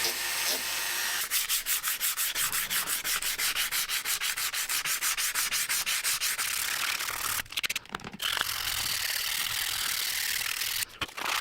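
Hand sanding: abrasive paper rubbed back and forth over metal or wood in quick, even strokes, about five a second, starting about a second in. It then goes on as steadier rubbing, broken by two short pauses.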